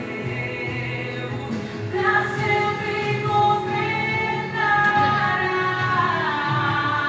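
Recorded gospel song with a woman's lead vocal and backing voices over a band, played for a dance.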